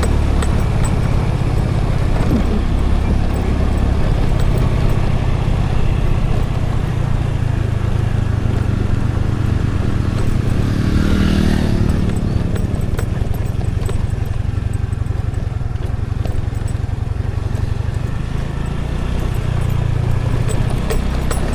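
Scooter ride heard from a helmet or handlebar action camera: continuous engine and road noise under heavy low wind rumble on the microphone. About eleven seconds in, another vehicle passes close by, swelling and fading over a second or two.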